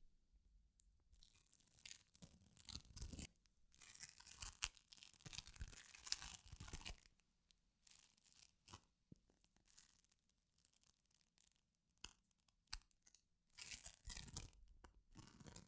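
Quiet ASMR trigger sounds made close to the microphone: three bursts of scratchy rustling, each a few seconds long, with scattered soft clicks in the lulls between them.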